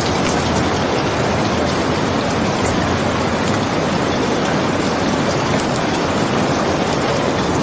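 Steady, dense rain noise, with faint scattered ticks of drops.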